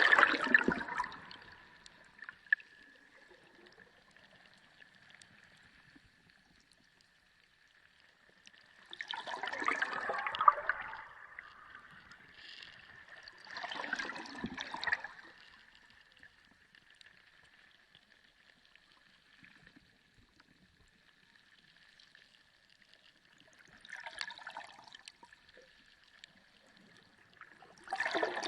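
Sea water recorded underwater: surges of gurgling, sloshing water swell up and die away five times at irregular intervals, with quiet stretches between. A faint steady high tone runs underneath.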